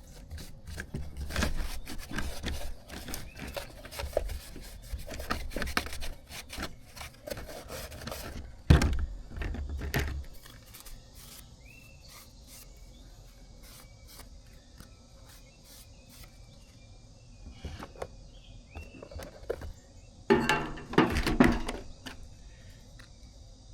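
Hands working on small parts and tools: scattered clicks, rubs and knocks, with a heavier thump about nine seconds in and another burst of clatter near the end. Crickets chirp faintly through the quieter middle stretch.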